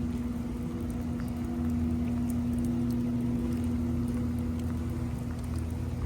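Steady mechanical hum with a constant low droning tone and a rumble beneath it, with scattered faint ticks of dripping rain.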